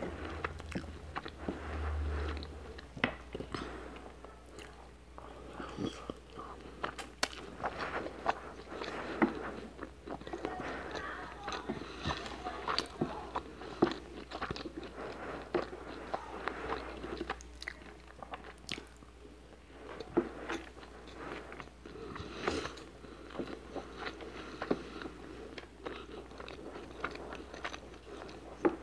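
Close-miked chewing of cooked rice, with many sharp mouth clicks throughout, and a wooden spoon scooping rice on a plate.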